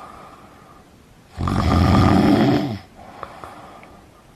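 A person snoring: one loud snore begins about a second and a half in, lasts over a second and drops in pitch as it ends, with softer breath sounds before and after it.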